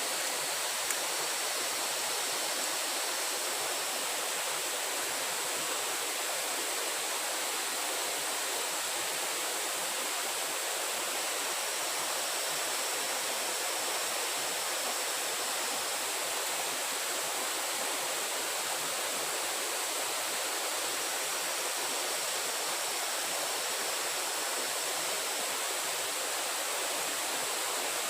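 Steady rush of running water, even and unbroken, with a faint high-pitched whine above it.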